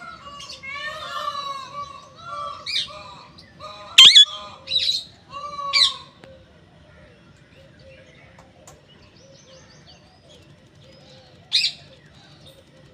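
Parrot calling and chattering in a string of short, bending pitched calls, with sharp, loud squawks about four, five and six seconds in. It then goes quieter, with one more sharp call near the end.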